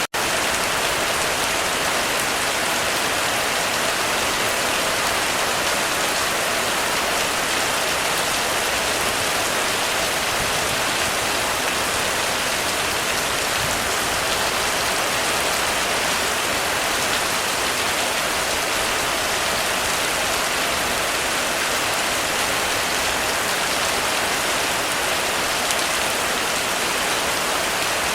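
Heavy rain falling steadily on a roof, a dense, even hiss of drops without a break.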